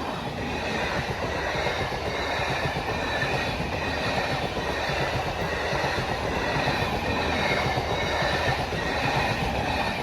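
Balurghat Express train passing close by: a steady rumble of coaches with wheels clattering over the rail joints and a faint high wheel squeal above it.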